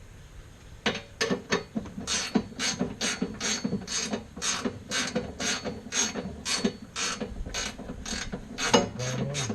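Ratcheting gear wrench clicking steadily, about three to four clicks a second, as a bolt is turned by hand; the clicking starts about a second in.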